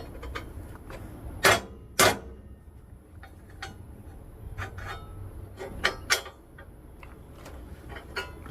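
Metal clicks and knocks as a small metal spacer is handled and test-fitted into a steel lower control arm, two sharper knocks about a second and a half and two seconds in, then lighter scattered clicks.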